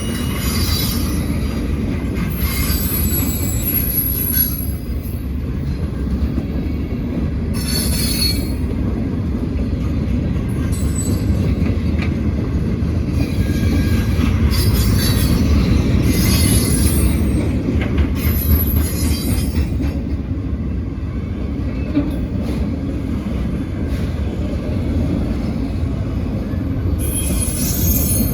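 Freight train cars rolling past with a steady low rumble, and high-pitched wheel squeal coming and going every few seconds.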